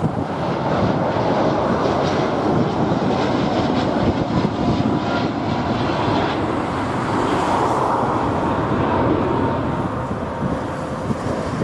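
Jet airliner's engines at takeoff power, a steady loud rumble with a faint whine in the middle, mixed with wind buffeting the microphone.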